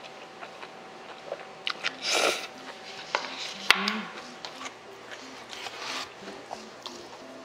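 Close-miked eating sounds of a person chewing Chapagetti black-bean noodles: soft wet mouth clicks throughout, a short slurp about two seconds in and a single sharp click a little past the middle. Faint background music plays underneath.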